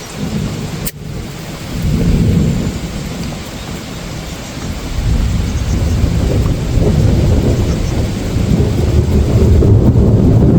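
Steady rain with deep rolling thunder, the rumble swelling about two seconds in and building again from about five seconds on.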